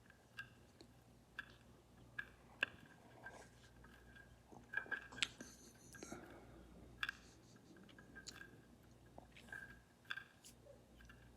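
Inca doves pecking seed in a feeder: faint, irregular clicks and taps, a few sharper ones standing out.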